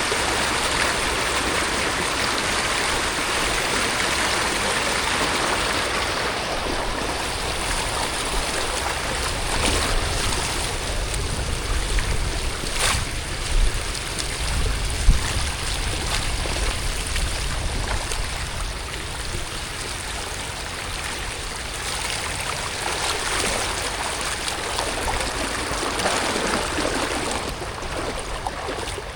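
Steady rush of rain and running water, with some low rumbling and one short knock about halfway through.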